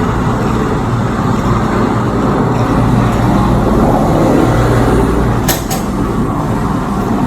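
Helicopter engine and rotor running as a loud, steady drone, with two short sharp clicks about five and a half seconds in.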